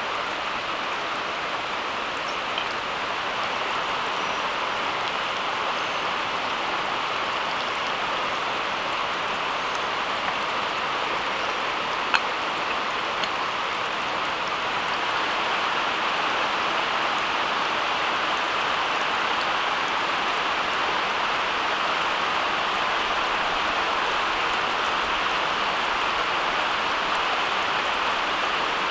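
Steady rain falling, an even hiss with a few sharp ticks, the loudest about twelve seconds in.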